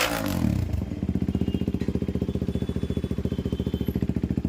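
KTM Duke 390's single-cylinder engine breathing through an aftermarket Akrapovic exhaust: a rev falls away in the first second, then it idles with a steady, even pulse.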